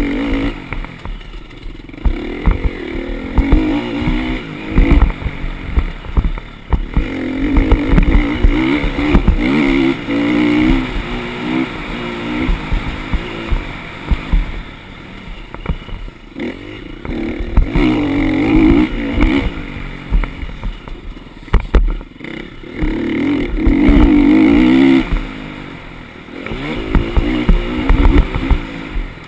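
Motocross dirt bike engine revving up and easing off again and again, its pitch rising and falling every few seconds, with frequent irregular low thumps.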